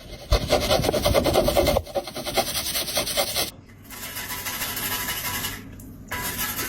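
Rough rasping, scraping noise in three bouts: a loud stretch of about three seconds, then two shorter, quieter ones.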